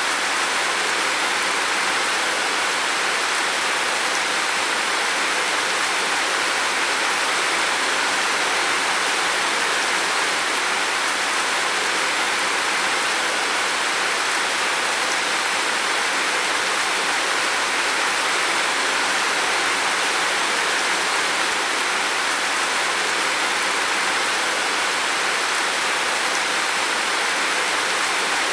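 Heavy rain falling steadily on a roof, a dense even hiss with no breaks or single drops standing out.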